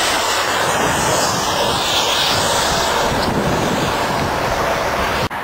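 Strong wind rushing over the microphone in a steady, loud roar ahead of a thunderstorm. It cuts out abruptly for an instant near the end.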